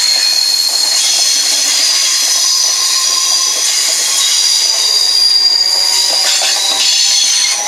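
Train wheels squealing against the rails: a loud, high-pitched squeal of several pitches at once, held steady throughout.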